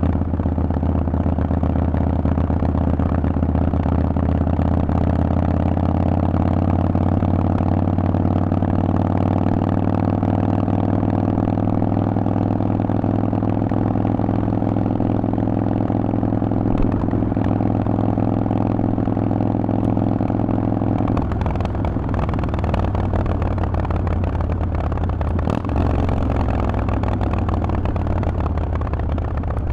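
Harley-Davidson Forty-Eight's 1200 cc V-twin running through a Vance & Hines exhaust, holding a steady note while riding. About two-thirds of the way through, the steady note breaks into a rougher, lower rumble as the throttle eases off, and the revs rise briefly near the end.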